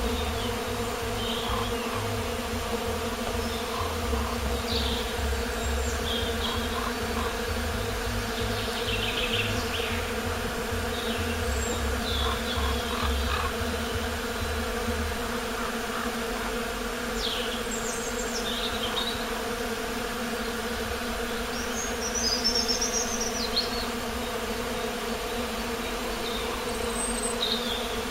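Songbirds giving scattered short high chirps and trills, with a longer warbling phrase about two-thirds of the way in, over a steady buzzing hum. A low rumble sits underneath for the first half and then stops.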